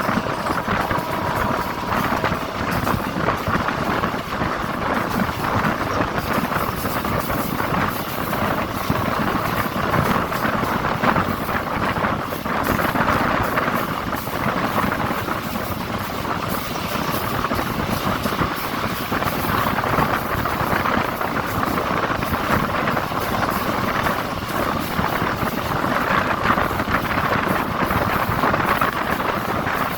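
DEMU (diesel-electric multiple unit) passenger train running, a steady, continuous rumble of engine and wheel-on-rail noise.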